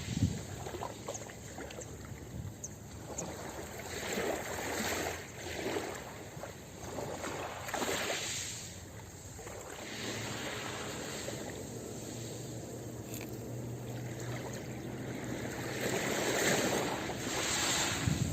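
Ocean surf washing onto a beach, the noise of the waves swelling and falling back every few seconds.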